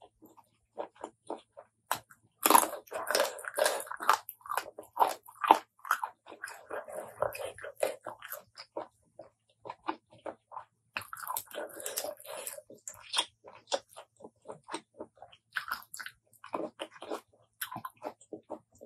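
Close-miked chewing and crunching of food from a spicy apple snail salad with fresh vegetables: a quick, uneven run of crisp crackles and clicks. There are louder, denser stretches of crunching about two to five seconds in and again about eleven to thirteen seconds in.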